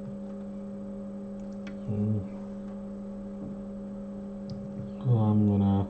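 Steady electrical mains hum from bench equipment, with two short low murmurs from a person, about two seconds in and again near the end, the second louder and rising in pitch.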